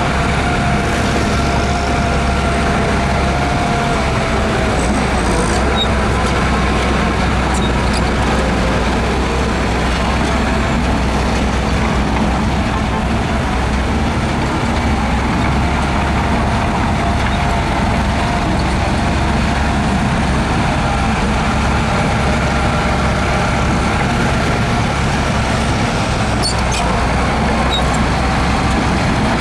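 Heavy diesel earthmoving machinery running steadily under load, a constant low engine drone with a thin steady whine over it. A few brief light clanks come about six to eight seconds in and again near the end.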